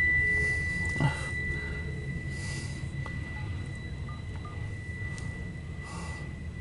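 A steady, high-pitched electronic tone sounds continuously over a low rumble, with a single short knock about a second in.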